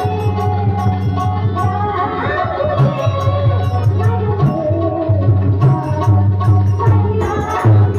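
Instrumental interlude of a devotional abhang: tabla and small hand cymbals keep a steady rhythm under a sustained melodic line, with no words sung.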